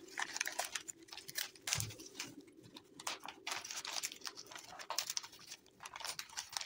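Hands unwrapping a gift packet: irregular crinkling and rustling of the wrapping, with small clicks and taps.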